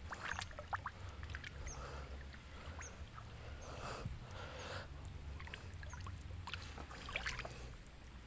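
Faint water splashing and sloshing in shallow, muddy water, a few short splashes scattered through, over a steady low drone.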